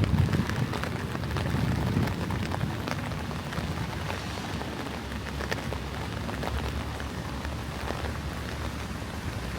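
Steady rain falling, with many scattered sharp ticks of individual drops striking close by. A low rumble is loudest in the first couple of seconds and then fades.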